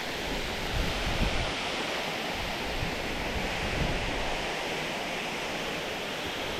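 Steady rushing of fast-flowing creek water below a spillway, with brief low wind buffeting on the microphone about a second in and again near four seconds.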